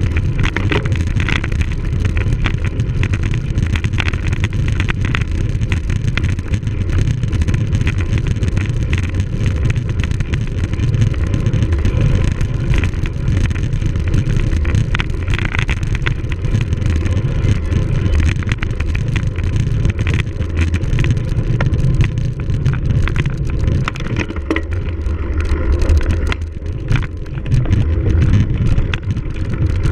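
Continuous wind rumble on the microphone of a cyclocross bike being raced over rough ground, with the bike rattling and clattering throughout.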